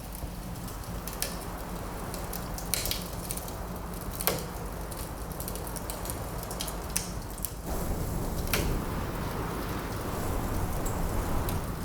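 Fireplace logs crackling, with sharp pops at irregular intervals, over a steady low rush of wind that swells about eight seconds in.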